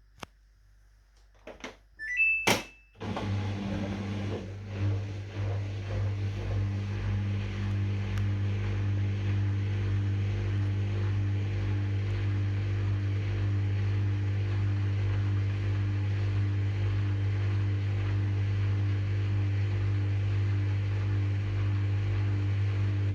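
Samsung washing machine starting a cycle: a few clicks and a short high beep, then a steady electric hum from about three seconds in that cuts off suddenly near the end, typical of the drain pump running at the start of the wash before water fills.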